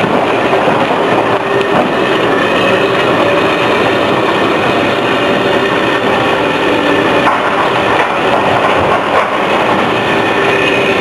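Demolition work on a building: heavy machinery running with a loud, steady rumble and clatter.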